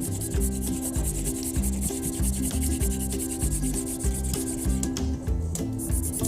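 Wooden hand drill spun back and forth against a wooden hearth board for friction fire-making, giving a fast scratchy rubbing that breaks off briefly about five seconds in; the friction is already making smoke. Background music with a melodic bass line plays throughout.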